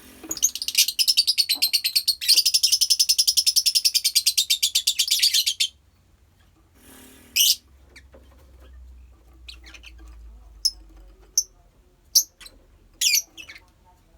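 Lovebirds calling: a loud, fast, rattling chatter of about ten high notes a second for some five seconds, then a few short, sharp single chirps spaced a second or so apart.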